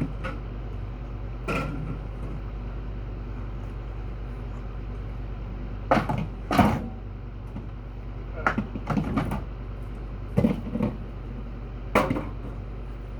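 Drink cans being handled and set into a fridge: a string of short knocks and clatters, loudest about six seconds in, over a steady low hum.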